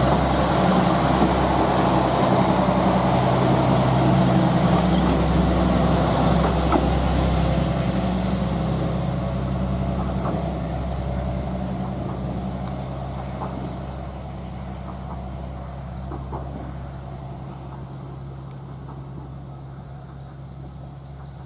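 A train moving away along the track, its steady low engine hum and rumble fading gradually as it recedes.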